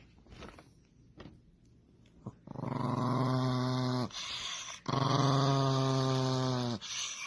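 Dog growling low: two long, steady growls of about two seconds each, the first starting about two and a half seconds in.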